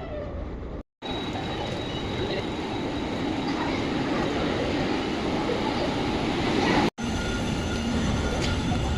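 Steady rumble of road and traffic noise mixed with wind, heard while cycling along a city road. The sound drops out completely for an instant twice.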